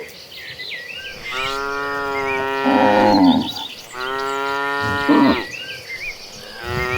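Cattle mooing: two long moos, the first starting about a second and a half in and the second about four seconds in, with another beginning near the end.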